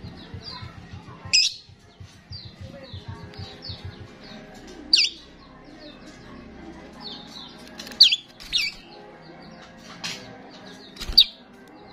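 Starling calling busily: a steady run of short high chirps, broken about five times by loud, sharp whistled calls.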